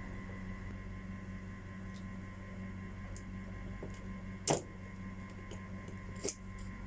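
Two sharp taps, about two seconds apart, over a steady electrical hum.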